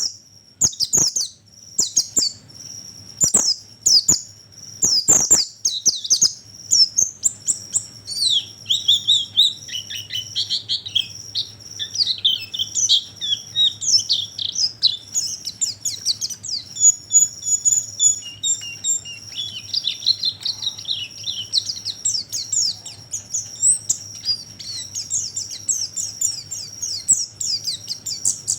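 White-eyes (pleci) calling and twittering: rapid, high chirps and trills, tightly packed and overlapping, in a lure-call recording meant to draw white-eyes in. Sharp clicks cut through the first few seconds.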